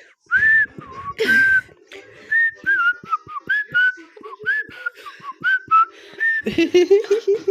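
A person whistling a string of short notes that jump up and down in pitch, with breathy air between them. A voice breaks in near the end.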